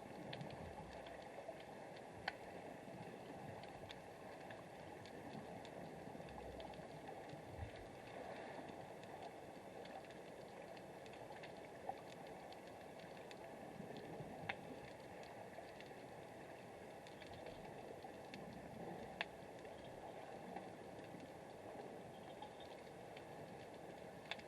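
Faint underwater ambience picked up by a submerged camera: a steady hiss with scattered sharp clicks, a handful of them louder than the rest.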